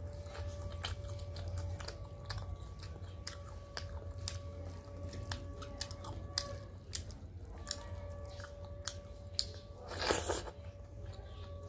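Close-miked chewing and wet mouth clicks of someone eating rice mixed with dal and fried fish by hand, over a steady low hum. A louder, longer smacking burst comes about ten seconds in as a handful goes into the mouth.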